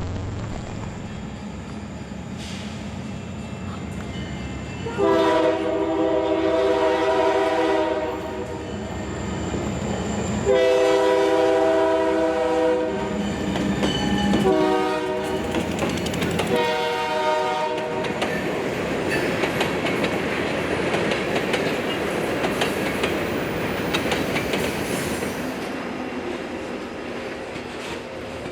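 Locomotive air horn sounding the grade-crossing signal, long, long, short, long, as a train approaches. The train then passes, its wheels clacking over the rail joints.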